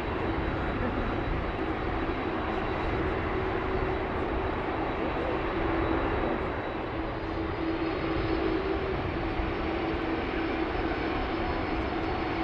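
Airbus A380's four Rolls-Royce Trent 900 jet engines, a steady rushing drone with a constant hum running through it and a faint high whine coming in about halfway.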